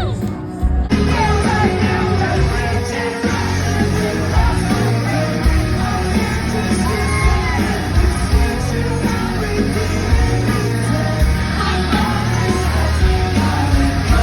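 Live rock band playing loud in a concert hall, with a voice singing and yelling over the music.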